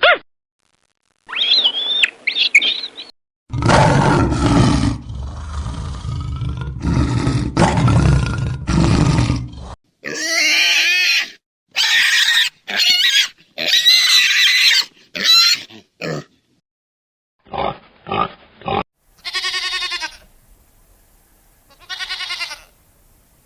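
A run of different animal calls, one short clip after another: high chirps, then several seconds of low, rough calls, then a string of high-pitched cries, and near the end a few short calls and two pitched calls.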